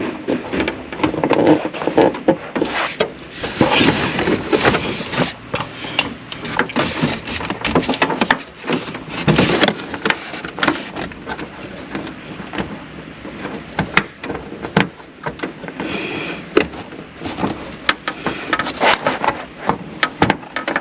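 Plastic dash trim and clips being handled and pushed into place by hand: irregular clicks, knocks and rustling scrapes.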